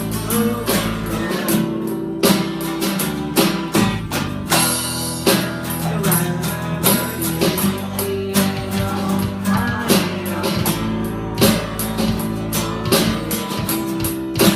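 Amateur rock band playing a song, electric or acoustic guitar over a steady drum beat, between sung lines.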